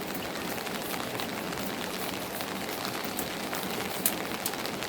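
Steady rain falling, an even hiss with scattered sharp drips.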